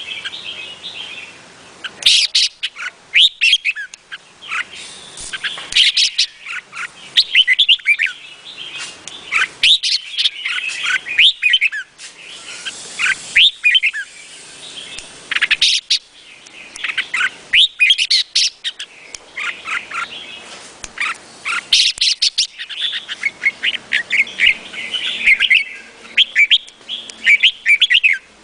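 Red-whiskered bulbul singing: short phrases of quick, bright chirping notes, repeated every second or two.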